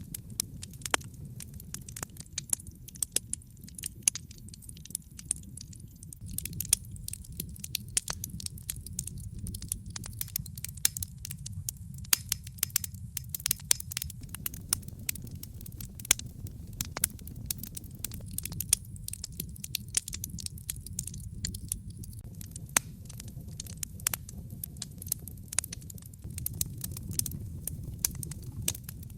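Wood fire burning in a fireplace: frequent sharp crackles and pops, irregular and dense, over a steady low rumble of flames.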